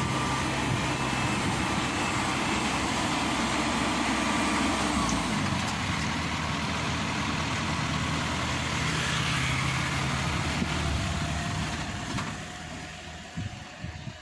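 Diesel engine running steadily, its hum dying down about twelve seconds in.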